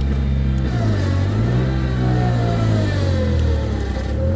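Engine revving under load as it strains to pull a stuck skid steer free. Its pitch dips about a second in, climbs, then eases down over the next few seconds before settling back to a steady run near the end.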